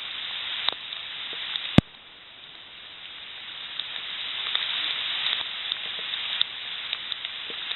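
Steady rain hissing on rainforest foliage, with scattered faint drip-like ticks. There is a sharp click about two seconds in, after which the hiss drops and slowly builds again.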